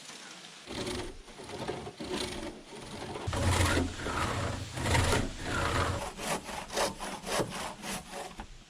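Saw cutting into log wood in repeated back-and-forth strokes. The strokes come quicker near the end.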